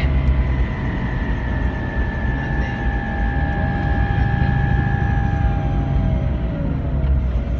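Ford F-250's 6.0 L Power Stroke turbo diesel running under way, a steady low rumble with a thin high whine over it that drops slightly in pitch near the end.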